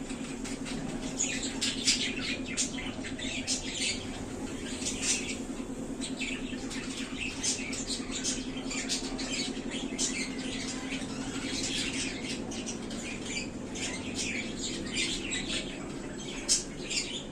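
Budgerigars chattering: a rapid, continuous stream of short squeaky chirps. A steady low hum runs underneath.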